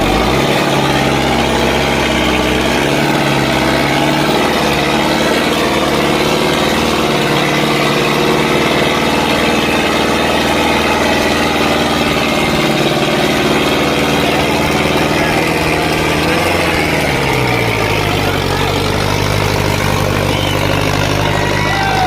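Sonalika 55 HP tractor's diesel engine running steadily under load, pulling four heavily loaded trolleys; its pitch drops about three-quarters of the way through.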